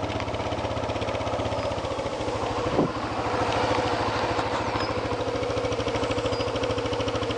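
ATV engine running steadily at low speed, with an even pulsing note and a brief short knock about three seconds in.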